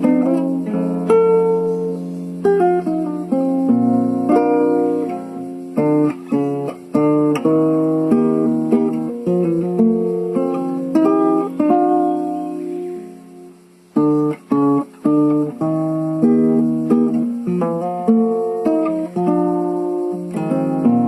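A solo plucked string instrument playing a bright, lively tune of ringing single notes and chords. About thirteen seconds in the notes die away, and the playing starts again a second later.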